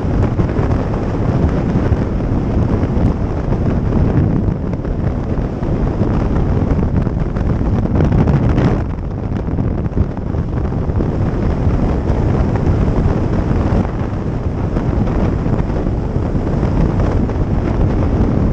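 Wind buffeting the microphone of a riding motorcycle, with a low rumble of the machine underneath; the noise eases briefly about nine seconds in.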